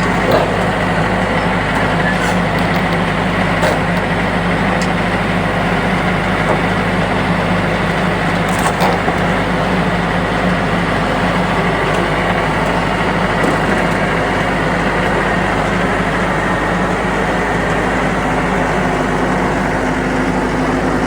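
A motor vehicle running steadily, with a constant low engine hum and road noise.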